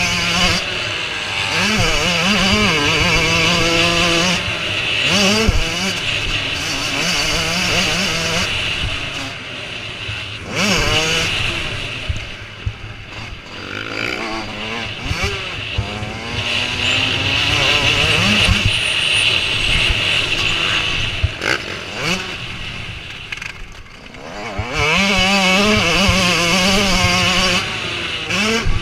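Several motocross bike engines revving up and down as the bikes race past, pitch climbing and falling with each gear change and throttle blip. Loudest near the start and again near the end, as bikes pass close by.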